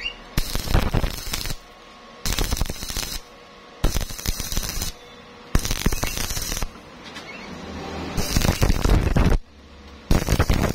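Stick-welding arc crackling in bursts of about a second each, starting and stopping abruptly several times, as short runs or tacks are laid.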